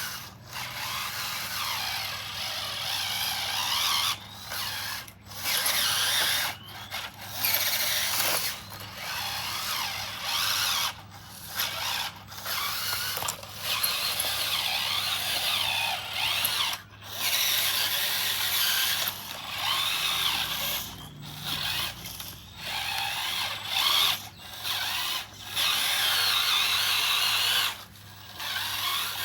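Small electric motors and gearboxes of radio-controlled construction models whining and grinding in stops and starts, their pitch sliding up and down as they speed up and slow down.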